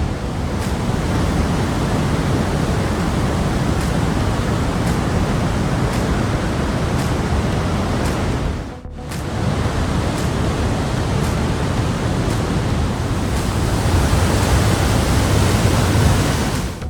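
Trümmelbach Falls, a glacier-fed waterfall, rushing with a loud, steady wash of falling water. The sound dips briefly about halfway through, then carries on unchanged.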